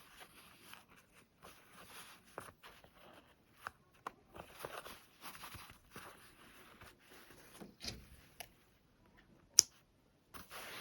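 Fabric rustling as cloth is handled, with scattered small taps and clicks and one sharp click about nine and a half seconds in.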